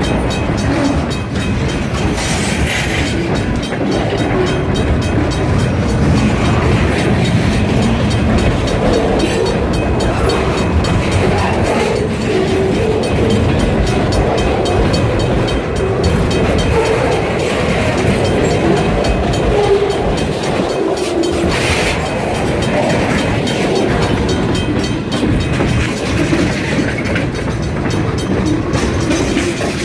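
Freight train rolling by, loud and steady, its wheels clicking rhythmically over the rail joints.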